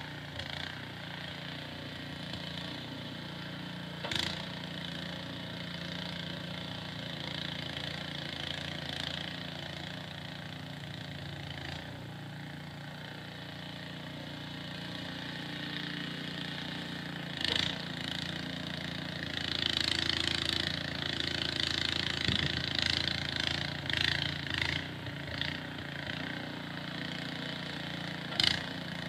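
Small petrol engine of a snowblower running steadily, with surges of hissing noise and a few sharp knocks, three of them standing out.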